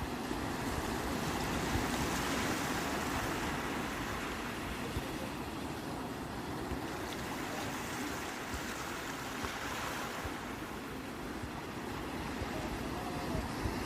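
Sea waves surging and washing onto the shore in a steady rush, swelling a little about two seconds in.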